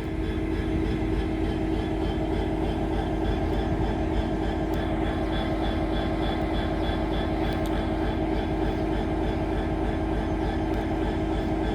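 Class 66 diesel locomotive's EMD two-stroke V12 idling at a standstill, not yet under power: a steady drone with a constant high whine over it.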